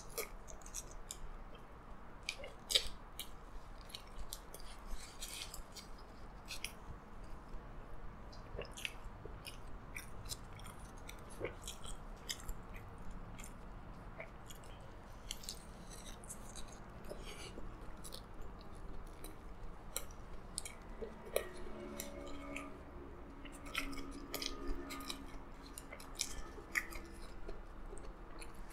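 Close-miked chewing of a double cheeseburger: wet mouth clicks and soft crackles, with the paper wrapper crinkling in the hands. A brief muffled hum with a full mouth comes about three quarters through.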